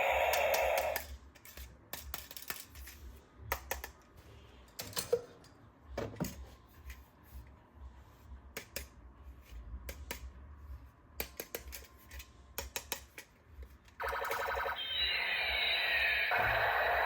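Electronic sound effects from a battery-powered toy gun: a pulsing chip sound cuts off about a second in, followed by scattered plastic clicks and knocks of the toys being handled. About 14 s in, another loud electronic effect starts with a falling sweep and keeps going.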